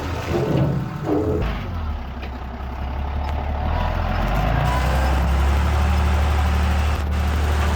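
Heavy diesel engine of earthmoving machinery running, growing louder about four seconds in and then holding steady.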